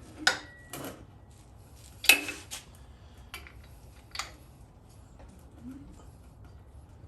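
Sharp metallic clinks and clanks as a Pontiac 326 V8 long block is turned over by hand: about six separate strikes, the loudest about two seconds in, then quieter for the last few seconds.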